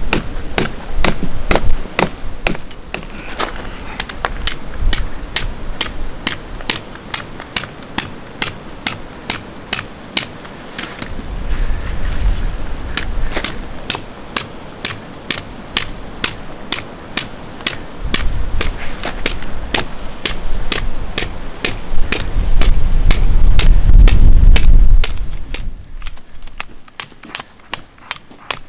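Tent pegs being hammered into the ground, a steady run of sharp strikes about two to three a second. Strong wind gusts across the microphone, loudest a little before the end.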